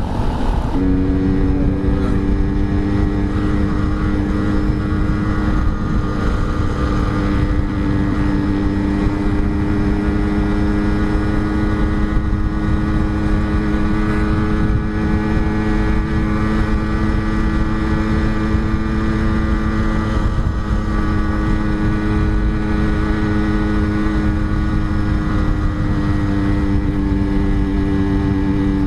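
Yamaha RX-King's two-stroke single-cylinder engine under way, the revs picking up about a second in and then held steady, with a brief dip about two-thirds of the way through.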